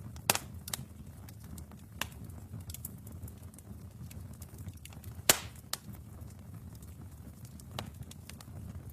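Wood fire burning in a fireplace: a low, steady rumble of flames with scattered crackles and sharp pops, the loudest shortly after the start and just past halfway.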